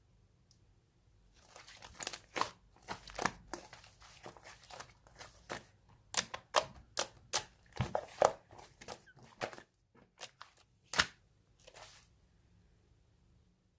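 Red clay slime worked by hand, making irregular sharp clicks and crackling pops. They begin about a second in, are densest in the middle, and die away shortly before the end.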